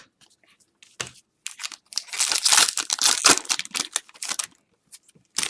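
Foil trading-card pack wrapper crinkling as it is handled and torn open: a few light clicks, then about three seconds of dense crackling.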